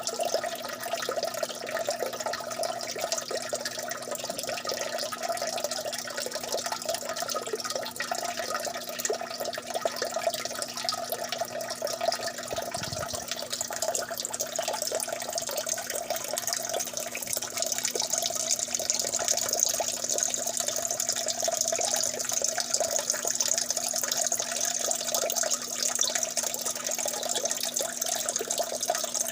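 Water dripping and trickling continuously, a dense run of small drops over a steady splashing hiss that grows a little brighter about halfway through.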